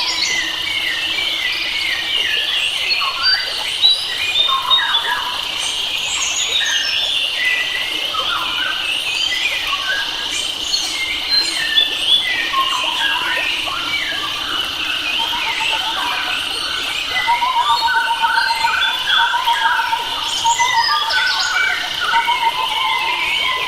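Several wild forest birds chirping and whistling over one another, with a steady high-pitched tone underneath. A fast trill of repeated notes joins in about two-thirds of the way through.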